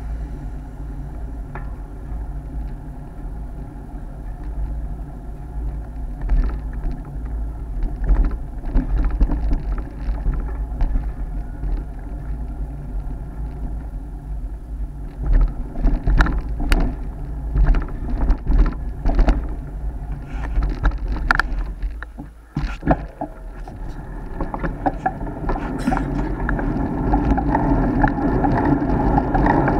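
Wind buffeting an action camera's microphone on a moving road bike, a steady deep rumble, with irregular clicks and knocks from the bike and mount rattling over the road surface, thickest around the middle. The rumble drops briefly past the middle and builds up again toward the end.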